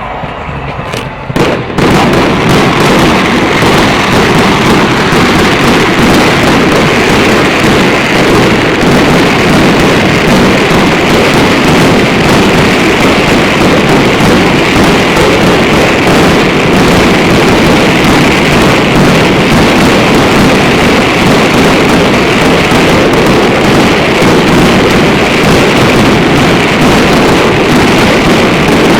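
A fireworks display in a dense, continuous barrage: a few separate bangs, then from about two seconds in, rapid overlapping bursts that merge into one loud, unbroken crackling roar.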